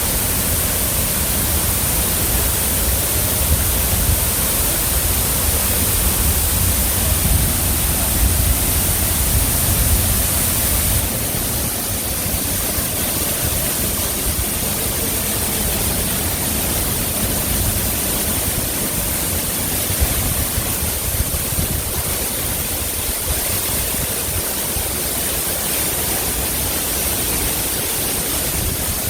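Steady rushing of a waterfall's falling water. A heavy low rumble drops away suddenly about eleven seconds in, and the rushing carries on evenly.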